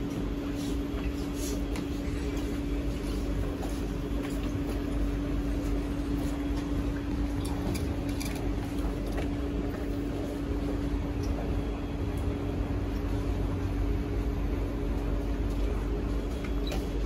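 Steady hum inside a stopped C151B metro train car standing at the platform with its doors open, with a few faint scattered clicks.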